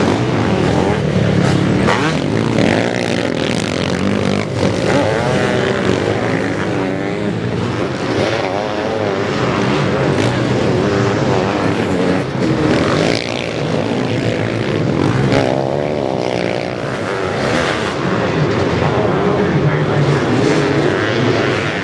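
Several sidecar motocross motorcycles racing, their engines revving up and down continuously with overlapping, wavering pitches as they climb and pass.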